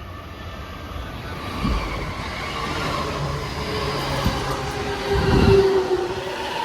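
E233-1000 series electric commuter train pulling into a station, its rumble and rail noise growing louder as it draws alongside. A few low thumps come through, and a tone falls slightly just past the middle.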